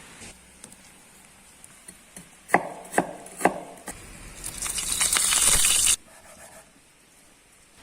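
Food-preparation sounds: three sharp knocks about half a second apart, then a hiss that builds for about two seconds and cuts off abruptly.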